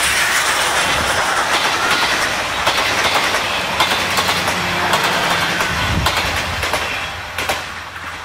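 Steam-hauled passenger train, led by the C57 1 steam locomotive, passing close by, its coach wheels clattering rapidly over the rail joints. The sound is loud, then fades near the end as the train draws away.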